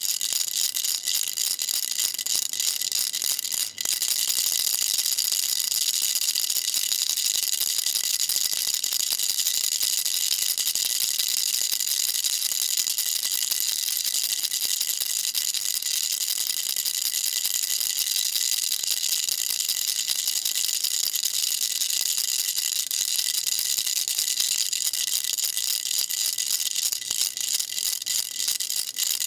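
Baby rattle shaken continuously, a dense, fast, high-pitched rattling with a brief break about four seconds in.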